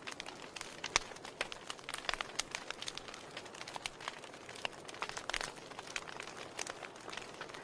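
Wood fire in a fireplace crackling: irregular sharp pops and snaps over a soft steady hiss, with a louder pop about a second in.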